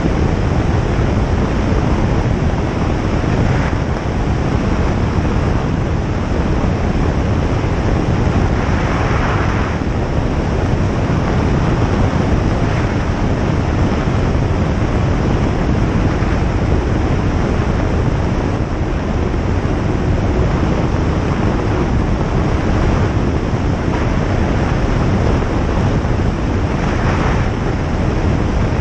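Single-engine light aircraft's engine and propeller running steadily, mixed with airflow noise, with a brief louder hiss about nine seconds in and again near the end.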